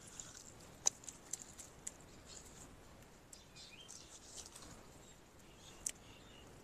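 Faint, scattered high chirps of small birds with light ticks, and a sharp click about a second in and another near the end.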